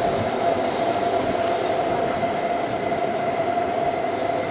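Train running on the tracks below: a steady rolling noise with a constant tone running through it.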